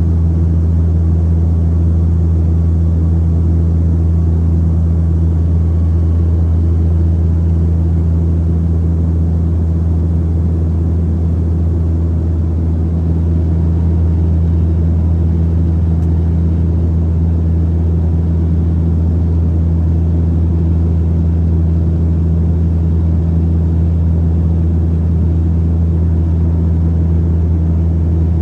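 Saab 340's twin turboprops and propellers droning steadily: a deep, constant hum with a second steady tone above it, over a broad rushing noise.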